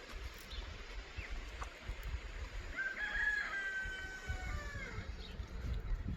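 A rooster crows once: a single long call starting about three seconds in, held and then falling away, over a steady low rumble.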